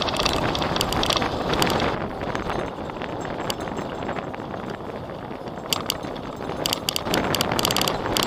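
Wind rushing over an action camera's microphone on a moving recumbent bicycle, easing off in the middle and picking up again near the end, with clusters of quick clicking and rattling from the bike, mostly near the end.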